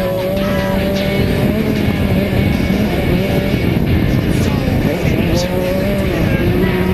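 Background music over a KTM 65 two-stroke motocross bike's engine running on the track.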